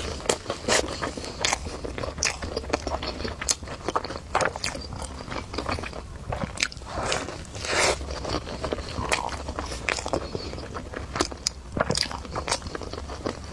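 A person biting into and chewing a burger, with many short, sharp mouth clicks and smacks throughout.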